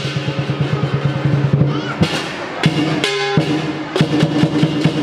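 Lion dance percussion ensemble of drum and cymbals playing a fast run of drum strokes, breaking off about two seconds in into a few spaced, heavy accented hits.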